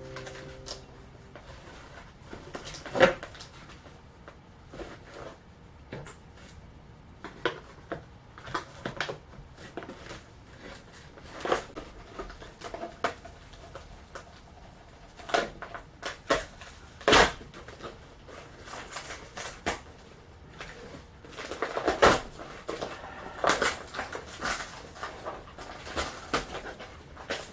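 Fiberglass part being pried and worked loose from its mold: irregular clicks, knocks and creaks, a sharp crack about three seconds in and another past the halfway mark, and a run of creaking near the end as the part starts to let go.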